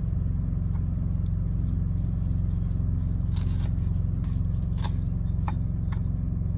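Steady low drone of an idling engine, with a few light clicks and a brief scrape from food being handled, about three and a half to six seconds in.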